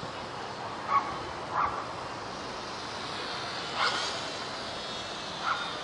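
Small electric motor and propeller of a WLToys F949 Cessna-182 RC plane whining steadily in flight, with a few brief sharper sounds about one, one and a half, four and five and a half seconds in.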